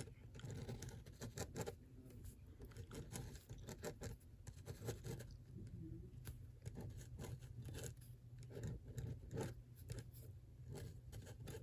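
Drawing on paper: faint, irregular scratching strokes of a drawing tool across the sheet, over a low steady hum.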